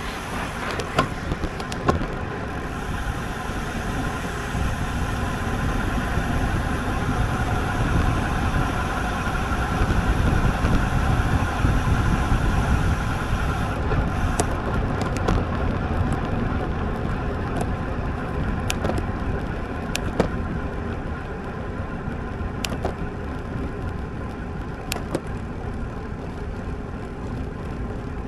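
Wind rushing over the microphone with road and tyre noise from a road bike on the move, swelling towards the middle and easing off later, with a few sharp clicks scattered through.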